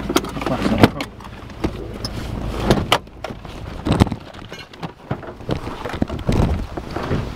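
A Subaru WRX GC8's turbocharged flat-four idling and then switched off about three seconds in. Car door clunks and handling knocks follow as the door is opened and the driver climbs out.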